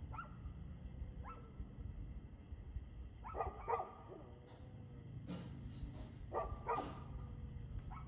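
A dog barking repeatedly, in single and double barks a second or two apart, over a steady low rumble.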